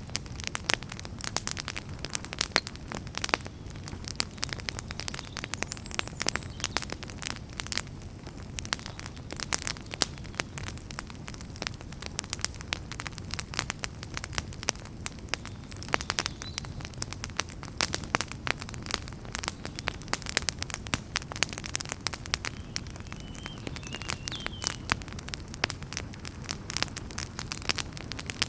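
Wood fire burning with dense, irregular crackles and pops over a steady low rumble of flames.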